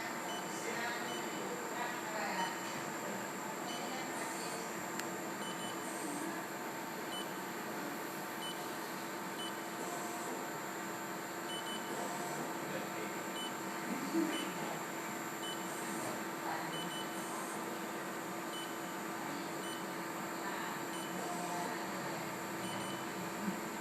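Ram Optical Sprint CNC-250 video measuring machine running a measurement program: short high beeps about once a second at uneven spacing, some in quick pairs, over a steady electrical hum.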